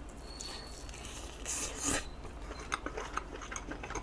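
Close-miked eating sounds as a piece of braised short rib is taken and eaten. A short rustling, slurping burst comes a little before the middle, followed by a run of small clicks from chewing and utensils.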